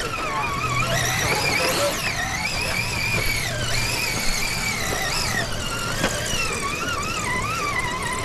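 Electric motor and gear whine of a scale RC crawler truck, a high whine that rises and falls in pitch as the throttle is worked over the course.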